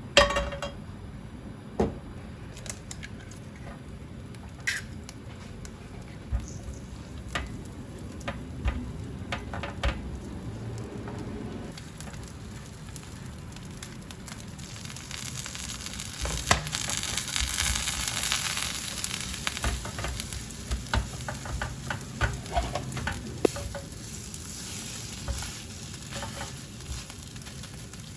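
Garlic sizzling in hot oil, with light clicks and scrapes of a cooking utensil. The sizzle grows louder about halfway through and eases off a few seconds later.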